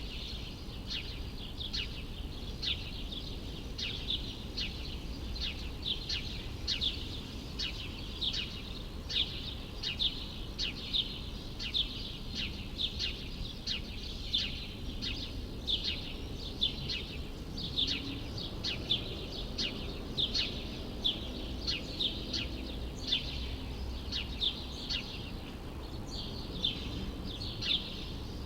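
A bird chirping in short, sharp repeated notes, about two a second without a break, over a steady low rumble of city background noise.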